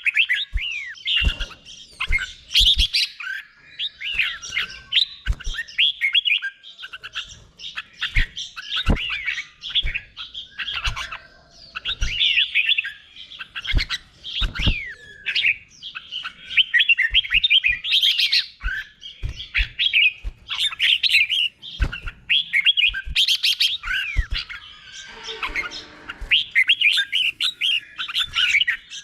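Red-whiskered bulbul singing: fast, bright whistled phrases repeated one after another with hardly a pause, in the doubled 'bubble' style that bulbul keepers prize. Short knocks sound in among the song.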